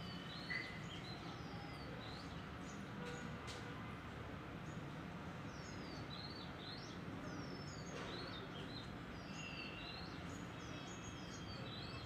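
Several small birds chirping in short, quickly falling notes, over a steady low rumble of background noise, with one brief sharp sound about half a second in.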